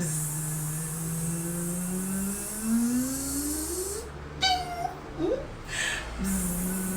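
A woman's voice imitating a bee's buzz, a long held "bzzz" that rises slowly in pitch. It breaks off after about four seconds, followed by a couple of short vocal sounds, and a second buzz begins about six seconds in.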